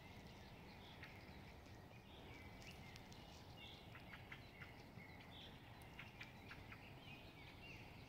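Faint birdsong: scattered short calls and chirps from several birds over a faint steady rumble.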